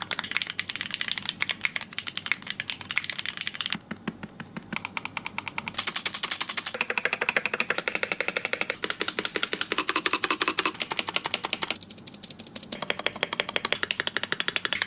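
Rapid computer keyboard typing, a fast continuous run of key clicks at about ten a second with short lulls.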